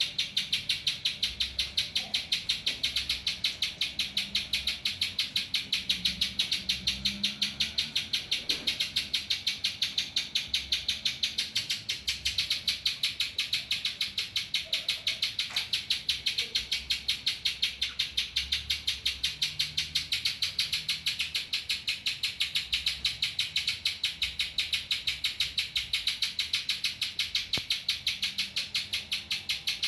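Pijantung (spiderhunter) singing a long run of rapid, evenly repeated high chirps, several a second, a chattering phrase it has copied from the ciblek (bar-winged prinia).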